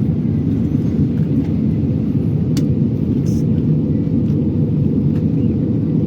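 Steady low rumble of an airliner cabin in flight: engine and airflow noise heard from a passenger seat, with a faint click about two and a half seconds in.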